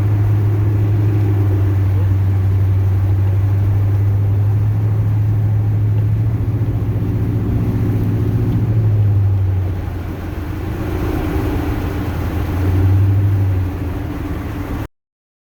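Chevrolet plow truck's 8.1-litre Vortec big-block V8 running on the road, heard from inside the cab as a steady low drone. It eases off about ten seconds in, swells again briefly, and cuts off abruptly near the end.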